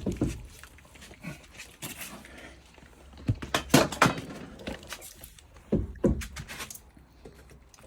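Scattered knocks and clunks of a car's road wheel, its wheel nuts and hand tools being handled as the wheel comes off the hub, with a cluster of sharp knocks in the middle.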